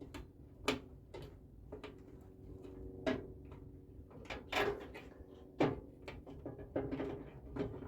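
Irregular metallic clicks and clunks as push-on clip wires are pried and pulled off the terminals inside a microwave oven with wire cutters, about a dozen sharp knocks spread unevenly.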